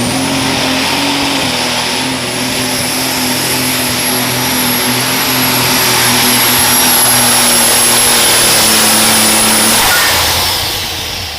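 An unlimited super stock pulling tractor's engine running at full power under load, with a high steady whine over it; it holds, growing slightly louder, and then is shut down or backed off about ten seconds in, the whine falling away.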